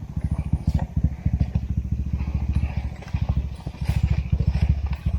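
Trail dirt bike engine running at low revs, the throttle opened and eased off repeatedly so the engine note rises and falls, with a few knocks and clicks over it.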